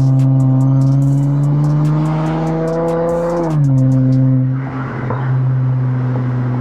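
Exhaust note of a 2020 Acura TLX A-Spec's V6 through a custom catback with both mufflers and the stock resonators replaced by two Vibrant Ultra Quiet resonators, heard at the rear bumper. The engine pulls with its pitch slowly rising, drops sharply about three and a half seconds in as the transmission upshifts, then runs steady at lower revs.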